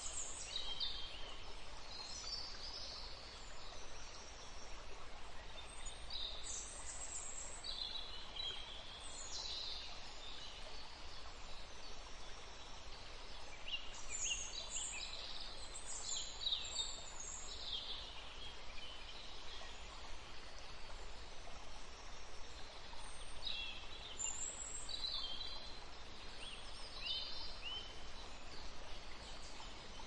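Small birds chirping in short, high calls, scattered irregularly and now and then several at once, over steady background noise.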